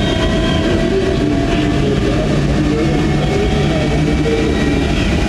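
Jet engine running: a loud, even roar with a thin steady whine over it.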